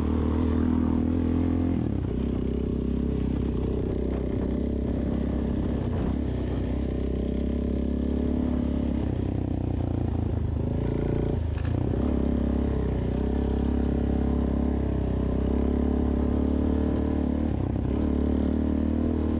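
Suzuki DRZ400S single-cylinder four-stroke engine running steadily at low revs, heard through a helmet intercom microphone, with brief small dips in pitch about halfway through and near the end.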